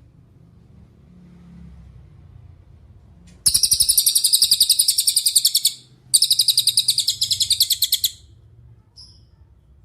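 A cililin songbird singing a rapid, high, rattling trill of about ten notes a second. It comes in two runs of about two seconds each with a short gap between them, then one short note near the end.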